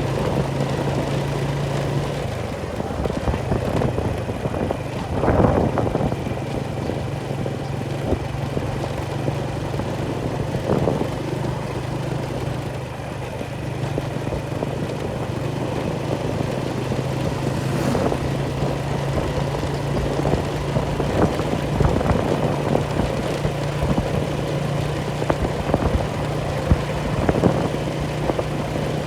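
An engine running steadily at a constant low pitch, with a few short knocks and clicks over it.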